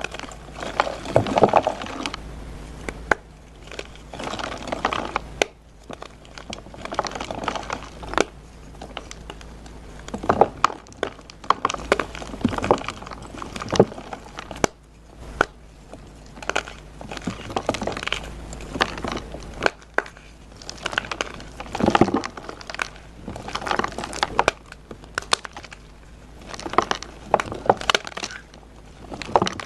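Blocks of dyed gym chalk being crushed and crumbled, a run of irregular crunches with sharp cracks among them.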